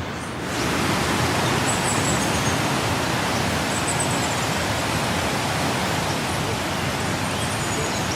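Steady hiss of heavy rain falling, growing louder about half a second in and then holding even.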